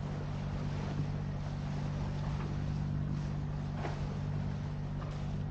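A sailing yacht's inboard diesel engine running steadily under way, with an even rushing hiss of water and wind over it.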